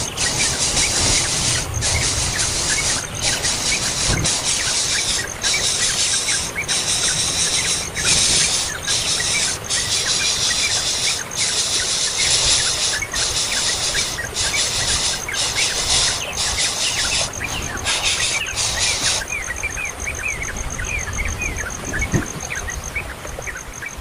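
Birds chirping, many short quick calls, over a loud, high, shrill hissing chorus broken by brief gaps; the hissing stops about three-quarters of the way through, leaving the chirps and a faint pulsing high tone.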